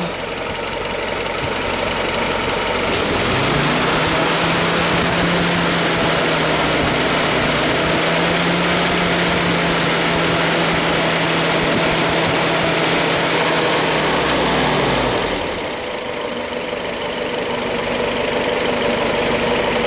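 Willys 134 cubic inch L-head four-cylinder flathead engine, still cold, revved by hand at the accelerator rod. Its speed climbs over the first few seconds, holds steady for about ten seconds, then drops back to idle about fifteen seconds in.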